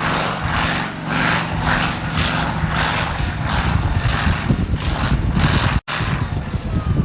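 Engine of a competition pulling tractor running loud, with a hiss that pulses about twice a second over a steady low rumble. The sound cuts out for an instant near the end of the stretch.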